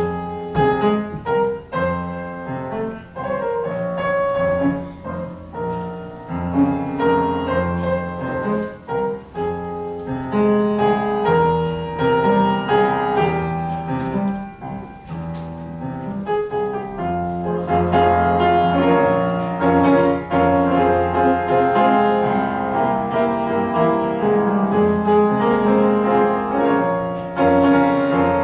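Piano music: a slow instrumental passage of struck notes and sustained chords, fuller and more continuous in its second half.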